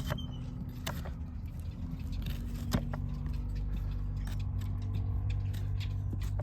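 Farrier's hand tools clicking and tapping against a horse's hoof and steel shoe, in scattered sharp strikes, over a steady low hum.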